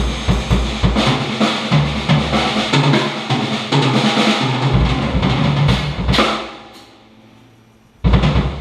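Drum kit being played: a busy beat of bass drum, snare and cymbals. It ends on a hit at about six seconds that rings out and fades, and the playing starts again just after eight seconds.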